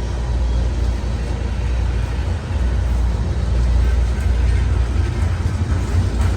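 Diesel locomotive engines running with a steady low rumble, as a train works past.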